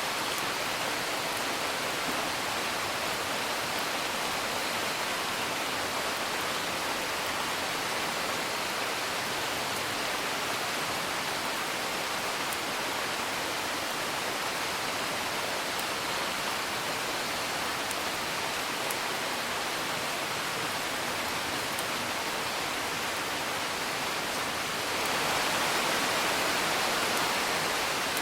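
Steady rain hiss with a few faint crackles of a wood fire; the rain swells louder near the end.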